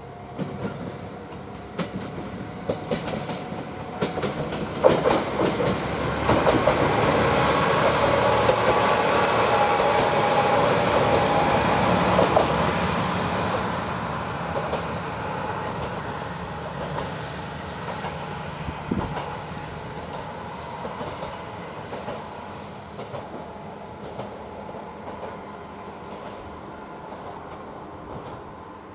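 Tsugaru Railway diesel railcar going by: sharp clacks of its wheels over rail joints, the train sound swelling to its loudest about midway with a brief high wheel squeal, then slowly fading as it moves off.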